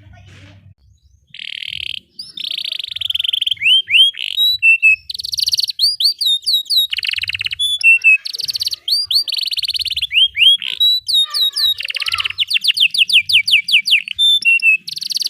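Canary singing a long, near-continuous song of fast buzzy rolls and rising whistled notes, starting about a second in, with a quick run of rapidly repeated notes near the end.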